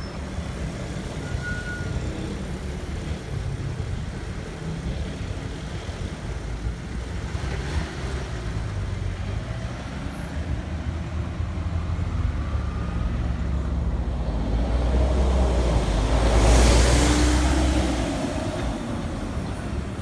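Road traffic running steadily, with one vehicle passing close by that grows loudest about three quarters of the way in and then fades.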